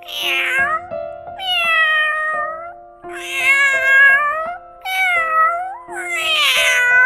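Domestic cat meowing five times in a row, long drawn-out meows that bend down in pitch at their ends.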